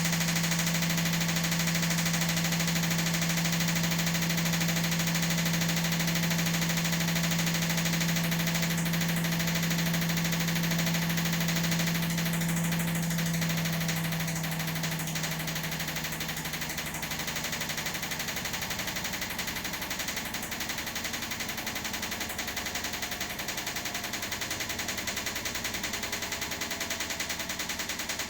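Washing machine running, with a loud steady hum over a dense mechanical drone; the hum fades away about halfway through and the drone carries on a little quieter.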